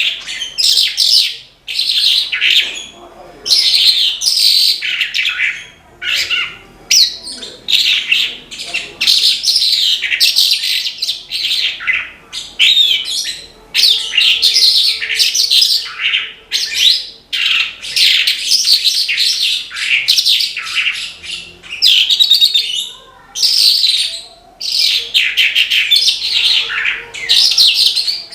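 Horsfield's bush lark (branjangan) singing hard: a rapid, varied song of fast trills and quick downward sweeps, delivered in bursts one to several seconds long with short breaks between.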